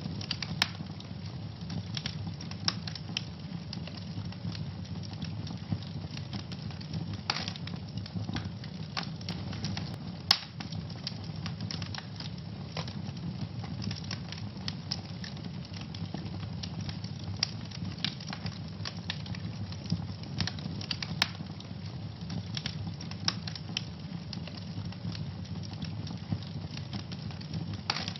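Wood fire burning in a fireplace: a steady low rumble of the flames with frequent crackles and sharp pops, a loud pop about ten seconds in.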